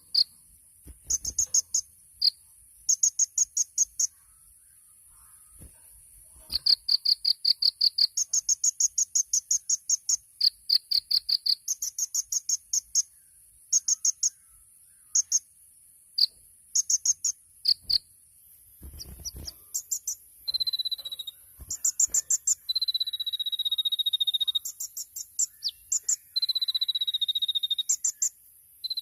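A kolibri ninja (a sunbird) singing: bursts of very rapid, high-pitched buzzy trills, some brief and some running a second or two. In the second half these are mixed with long, steady high whistled notes. A faint steady high hiss runs underneath.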